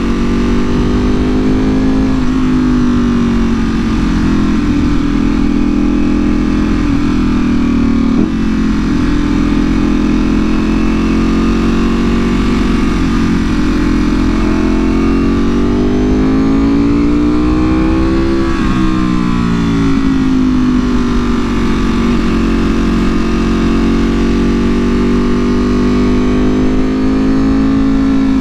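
Ducati Panigale V4R's 998 cc V4 engine running through an Akrapovic full exhaust at a steady cruise. Its pitch climbs gradually about halfway through, then drops suddenly and settles back to a steady note.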